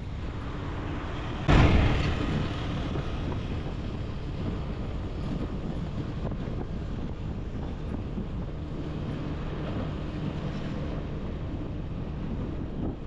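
Wind rushing over the microphone with the road and engine noise of a motorbike being ridden, steady throughout. About a second and a half in, a sudden loud burst of noise fades out over about a second.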